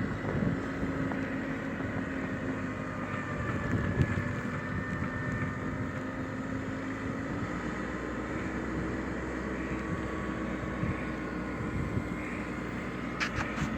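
An engine running steadily, its pitch stepping up slightly about halfway through.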